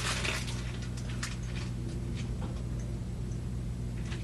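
Steady low electrical hum, with a short rustle at the start and a few faint clicks.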